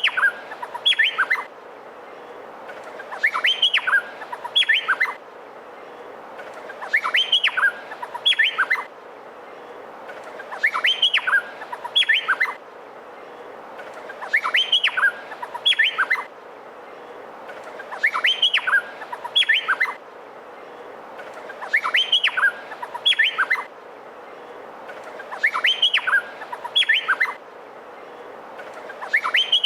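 Male Meliphaga honeyeater (cucak pantai) singing. The same short phrase of several quick, sharp whistled notes repeats about every four seconds over a steady hiss.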